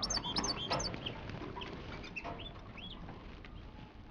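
Caged European goldfinches giving short, high chirping calls, several in quick succession in the first second, then a few scattered ones, fairly faint.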